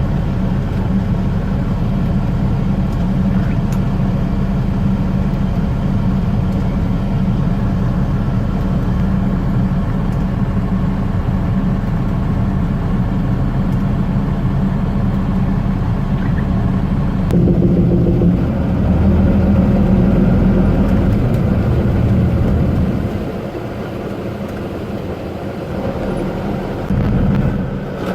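Truck's diesel engine running steadily while driving, its note changing about 17 seconds in and settling quieter from about 23 seconds.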